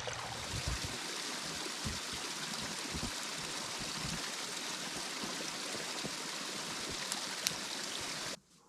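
Steady rush of running water, cutting off suddenly near the end.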